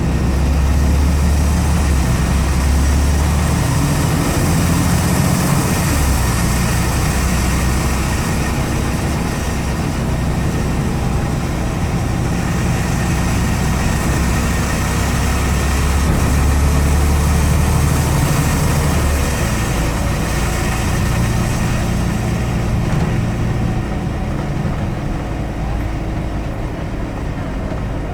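Scania N94UD double-decker bus engine running under load with a deep, loud drone, heard from the rear seats; the drone eases off about two-thirds of the way in, with road and tyre hiss underneath.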